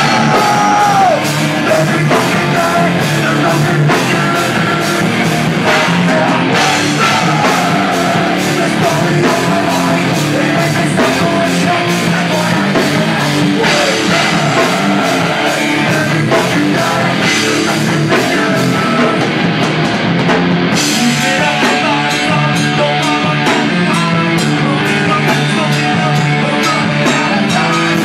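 Live rock band playing loud, with electric guitars, bass and a drum kit pounding a steady beat. The cymbals get brighter and busier about two-thirds of the way through.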